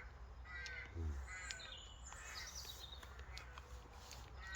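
Birds calling repeatedly, a run of short calls with several notes each, with a brief low sound about a second in.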